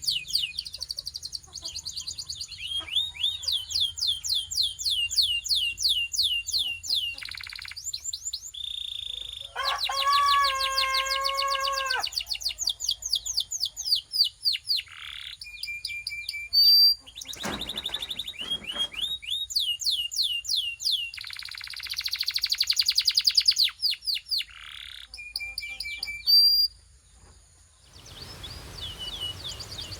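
Belgian canary singing a long, varied song of rapid trills and clear whistled notes. About ten seconds in comes a lower, rolling phrase, and later a harsh buzzy trill. The song breaks off briefly near the end, then the trills resume.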